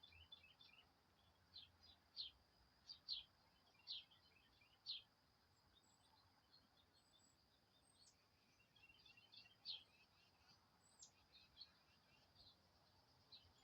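Faint small-bird chirps and calls: a run of sharp chirps in the first five seconds, then scattered softer twittering with a few thin high whistles.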